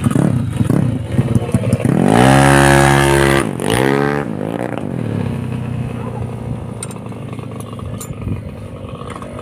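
Motorcycle engine revved hard about two seconds in, its pitch climbing and holding, then dropping and blipped up again before settling back to a lower steady run. A few light clicks near the end.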